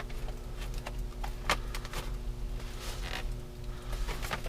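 A few light knocks and clinks as found items are stacked together, over a steady low hum.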